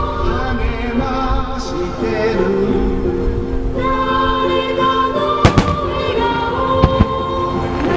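A song with singing played over loudspeakers for a music fireworks show, with sharp firework bursts about five and a half seconds in (two in quick succession) and another near the end. Wind rumbles on the microphone underneath.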